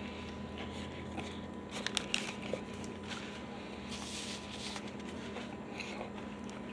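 Chewing a bite of crispy fried chicken sandwich: quiet, scattered crunches and mouth clicks, clustered about two seconds in, over a faint steady hum.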